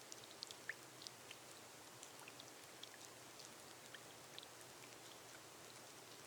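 Gentle rain on a glass roof: a soft, steady hiss with scattered light drip ticks, a few slightly louder ones in the first second.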